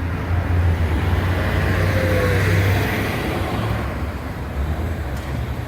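Road traffic noise: a vehicle passing by, swelling about halfway through, over a steady low rumble.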